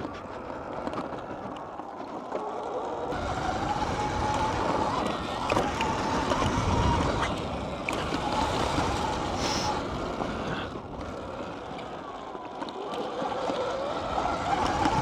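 Motorbike being ridden on a dirt track, its motor pitch rising and falling with the throttle, with wind rumbling on the microphone.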